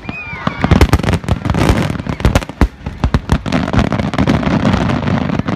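Aerial fireworks shells bursting in a dense barrage: many sharp bangs in quick, irregular succession over a continuous low rumble of booms and echo.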